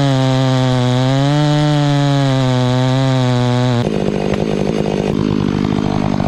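Large chainsaw running at high revs, sawing into a fir trunk. The engine note wavers slightly as the cut loads it, then about four seconds in the sound changes abruptly to a rougher, noisier running.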